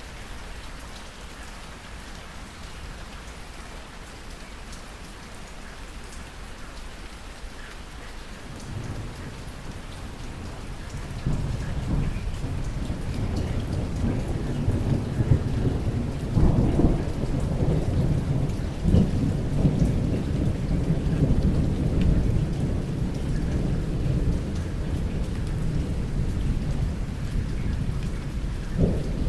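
Steady rain falling, with a long roll of thunder that builds in from about nine seconds in, grows sharply louder a couple of seconds later and rumbles on heavily through the rest.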